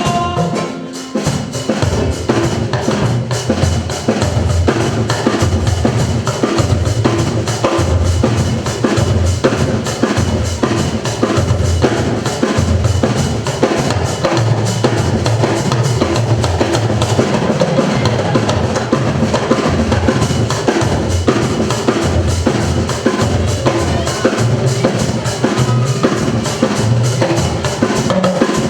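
Live music led by a drum kit playing a fast, steady beat, with bass drum and snare prominent.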